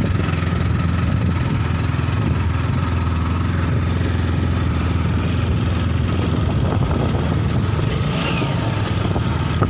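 Hero Glamour 125cc single-cylinder motorcycle engine running steadily while riding a rough dirt track, heard from the rider's seat.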